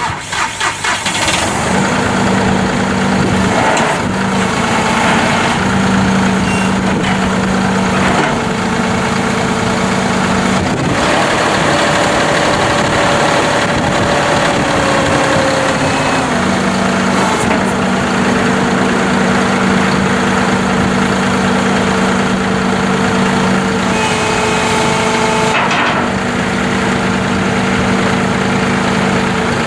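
John Deere 5055E tractor's diesel engine coming on and running steadily. About eleven seconds in the engine speed rises for several seconds, then settles back to a steady run.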